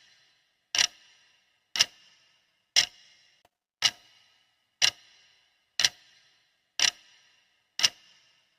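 Clock ticking once a second for the countdown timer, eight sharp ticks, each with a brief fading ring.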